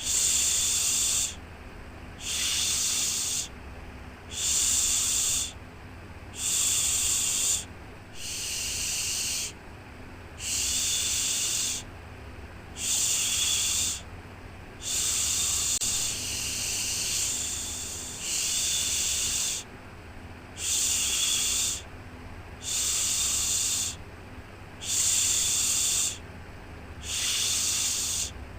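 Repeated "shhh" shushing sound for soothing a baby: a hissing shush about a second long, repeated roughly every two seconds in a steady rhythm, over a faint low hum.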